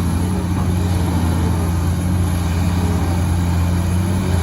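Heavy diesel engine running steadily with a deep, even hum and no revving.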